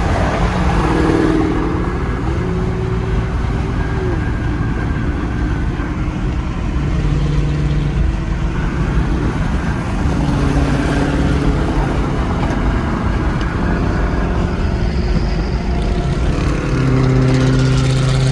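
A car running loudly on the road, with a steady low engine rumble and held engine tones that shift in pitch now and then.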